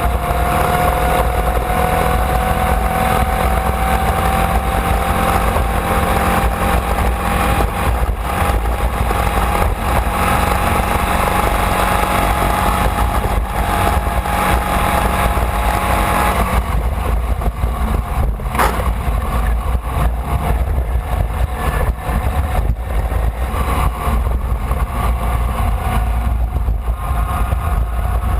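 A Formula Vee's air-cooled Volkswagen flat-four engine running hard, heard onboard, its pitch climbing slowly through a long pull. About sixteen seconds in the sound drops off as the driver lifts, and there is a sharp click a couple of seconds later.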